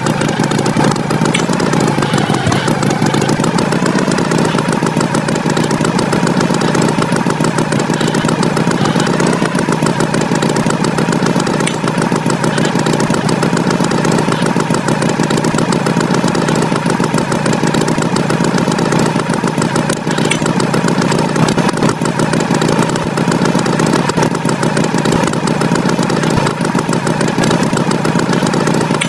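Tractor engine running steadily at an even speed, without a break.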